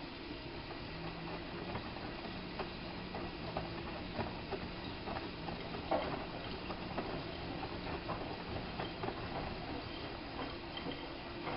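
Hanseatic HWM814A3D front-loading washing machine mid-wash: the drum turning with a low motor hum, and laundry and water sloshing and tapping inside with irregular small clicks. The hum stops about eight seconds in.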